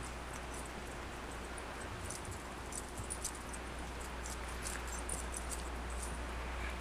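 Steady background hiss and low hum, with faint, scattered light clicks and jingles, thickest through the middle.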